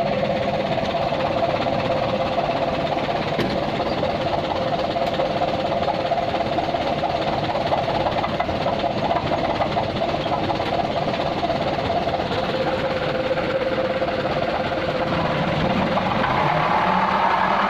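Mitsubishi Colt Diesel dump truck's diesel engine running steadily, picking up revs near the end.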